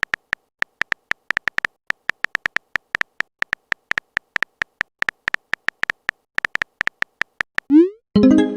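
Text-chat sound effects: a run of short, identical electronic beeps at an uneven pace, several a second, as the message text types out. Near the end a quick rising swoop leads into a bright ringing chime, a message-sent tone.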